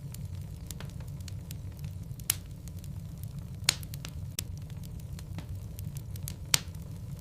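Wood fire burning in a fireplace: a steady low rumble of flames with frequent sharp crackles and pops of burning logs, the loudest pops about 2, 4 and 6.5 seconds in.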